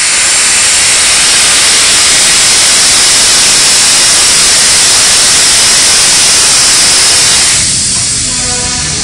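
Train air brake venting compressed air through the brake valve on the rear platform: a loud, steady hiss that starts suddenly and dies down near the end. It is the brake being worked from the rear platform while the train backs up.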